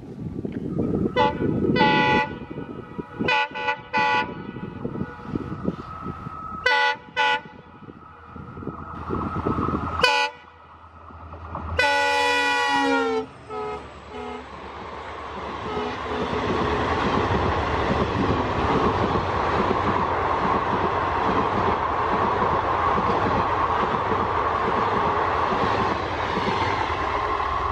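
Indian Railways diesel locomotive sounding its multi-tone horn in a string of short toots over the low rumble of its engine, then a longer blast whose pitch drops as the locomotive passes. The passenger coaches follow with a steady rushing and rattling of wheels on the rails.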